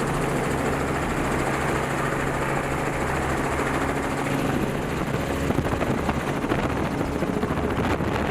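Helicopter in flight, its rotor and engine making a steady, constant noise.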